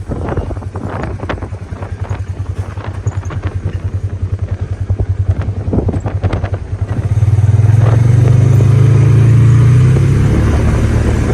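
A vehicle's engine running, then pulling harder and louder from about seven seconds in.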